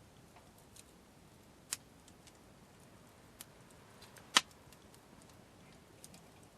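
Wood campfire crackling: a few sparse, scattered pops, with one sharp loud pop a little past the middle.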